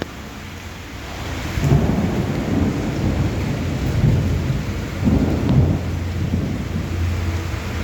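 Heavy rain falling, with an irregular low rumble that swells from about a second and a half in and eases off after about six seconds.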